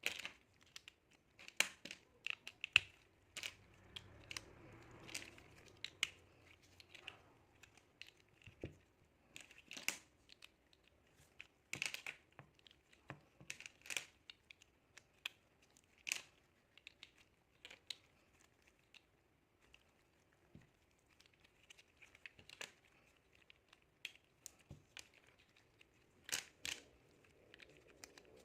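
Small plastic building bricks being handled and pressed together: irregular sharp clicks, some in quick pairs, with light rustling between them.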